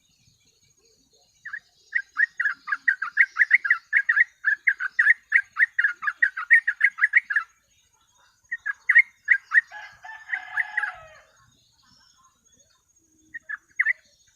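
Yellow-vented bulbul (trucuk) singing a fast run of repeated chirpy notes, about four a second for several seconds. After a short pause comes a second, shorter burst, and then a few notes near the end.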